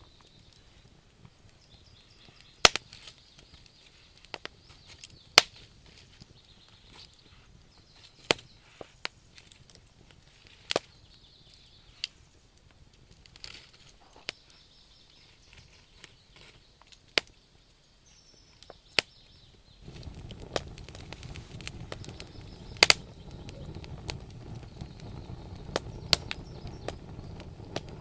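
Wood logs burning in a campfire, crackling with sharp, irregular pops. About twenty seconds in, a steady low rushing sound comes in under the pops.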